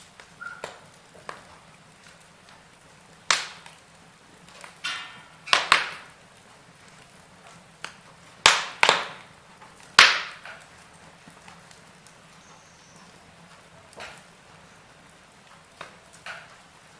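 Wood fire crackling: scattered sharp pops and snaps at irregular intervals over a faint steady background, the loudest cluster falling between about three and ten seconds in.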